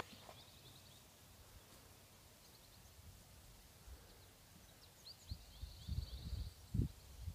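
Quiet outdoor ambience with a small bird chirping a few times, then a quick high trill about five seconds in. Dull low thumps and rumbles come in over the last two seconds and are the loudest sound.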